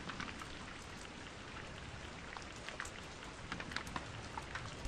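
Light rain falling: an even hiss with scattered single drops ticking against a surface.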